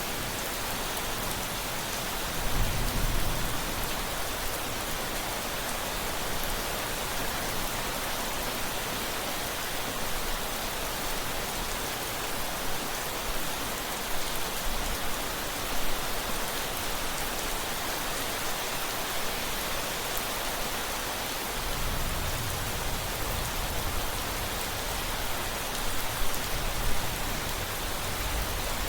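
Steady rain falling, with low rumbles of thunder about three seconds in and again for the last third.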